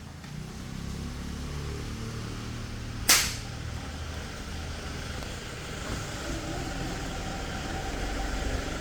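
A toy gun fires a single sharp crack about three seconds in, over a steady low rumble.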